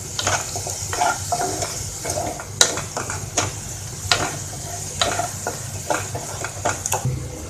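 Spoon repeatedly scraping and knocking against a pan as onion and tomato purée fry in ghee with a steady sizzle.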